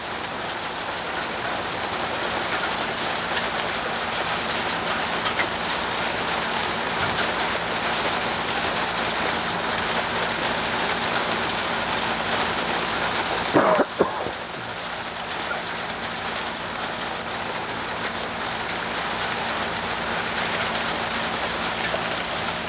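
Heavy rain pouring down steadily, a dense even hiss. A brief, sharp sound cuts through it about fourteen seconds in.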